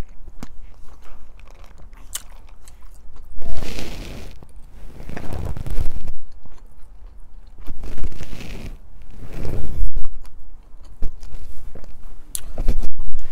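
Chewing and mouth sounds of someone eating chicken tikka masala with rice, coming in uneven bursts, with a few sharp clicks of a metal fork against the plastic takeout tray.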